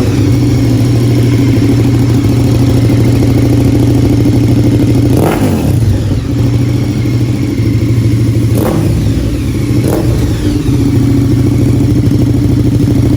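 KTM 1290 Super Duke R Evo's V-twin engine running loud and steady through an Akrapovič titanium full exhaust system. It is broken three times by a short sharp sound, about five, eight and a half and ten seconds in.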